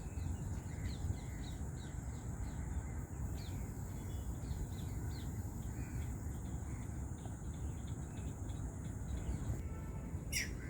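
Wetland ambience: many faint bird chirps over a steady low rumble and a steady high insect drone. A single louder, downward-sweeping bird call comes near the end.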